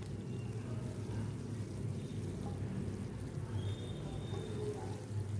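Shallots, garlic and curry leaves frying in oil in an aluminium kadai: a steady, soft sizzle.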